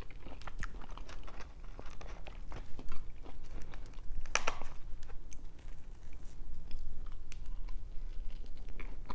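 A person chewing and biting crispy food, a run of small crunches and mouth clicks, with one louder crunch about four seconds in.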